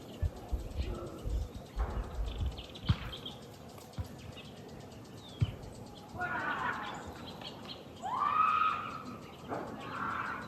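Knocks and rustling near the phone at the start, then from about six seconds in several loud arching animal calls.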